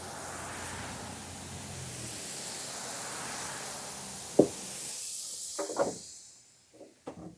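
A steady rushing noise, like a passing vehicle, that fades out about six seconds in. About four and a half seconds in comes a single sharp wooden knock, followed by a few lighter knocks of boards being shifted in a lumber pile.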